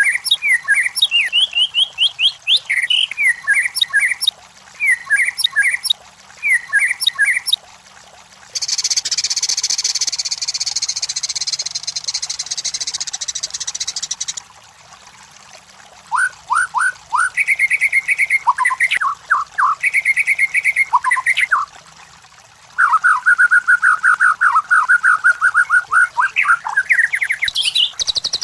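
White-rumped shama (murai batu) singing: varied phrases of repeated clear whistled notes and slurs, broken by short pauses. A harsh rasping stretch of several seconds comes about a third of the way in, and a fast run of trilled notes near the end.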